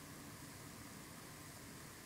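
Faint, steady hiss of wind, with no distinct gusts.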